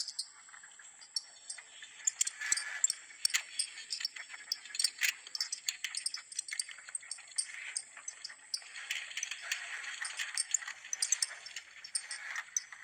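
A recording presented as the sound from inside the Earth, credited to Danish scientists: dense, irregular clicking and rattling crackle over a steady high hiss, with no low rumble.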